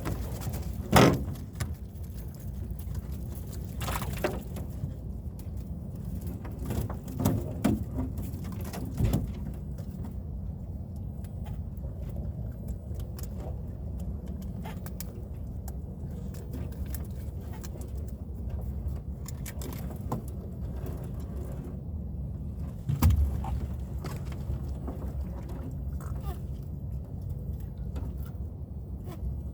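Small fishing boat's motor running steadily with a low hum, with scattered knocks and bumps, the loudest about a second in and again around two-thirds of the way through.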